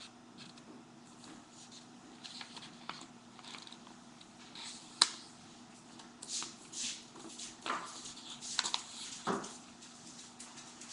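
A sheet of paper being folded and creased by hand: scattered soft rustles and scrapes, with one sharp click about five seconds in.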